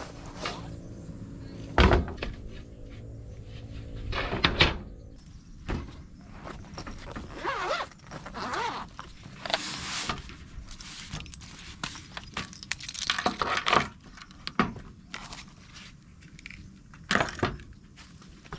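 Handling noises: two loud thumps about two and four and a half seconds in over a low steady hum that stops soon after, then rustling with many light knocks and taps.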